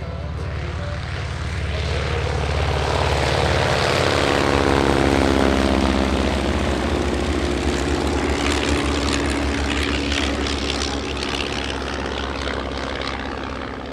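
Propeller-driven WW2 warbird's piston engine in a flypast, growing louder, then dropping in pitch as it passes, followed by a steady engine drone.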